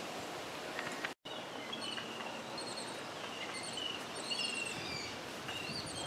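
Birds calling in short high chirps and quick trills over a steady outdoor hiss, starting just after the sound drops out briefly about a second in.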